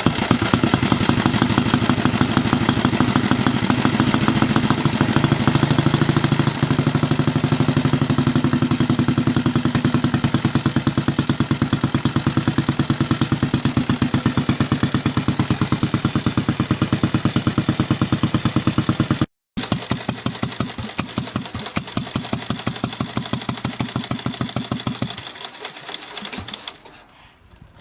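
Rudge Multi veteran motorcycle's single-cylinder engine running after being started, with rapid, even firing beats. About two seconds before the end it dies away and stops.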